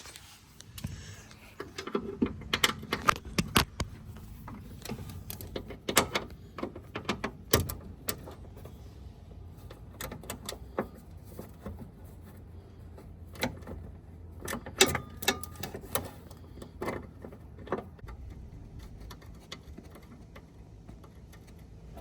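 Socket ratchet clicking in short runs and metal tools clinking against parts, while a small bolt holding the power steering line is undone by hand.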